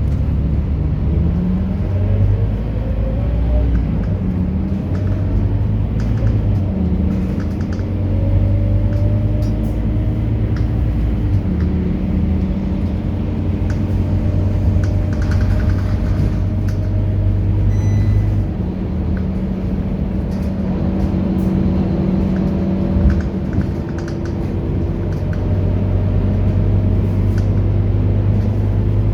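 Scania K230UB Euro 4 bus's five-cylinder diesel engine running under way. Its pitch rises repeatedly as the bus accelerates through the gears, with steady stretches between. A short high beep sounds about eighteen seconds in.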